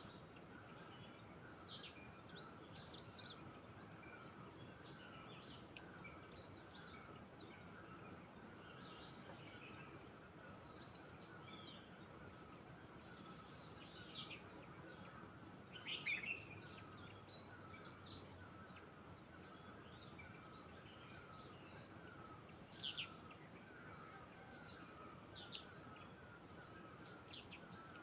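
Wild birds chirping and trilling in short high phrases, several of them louder about halfway through and near the end, over a faint steady background hiss and a fast, even repeating lower call.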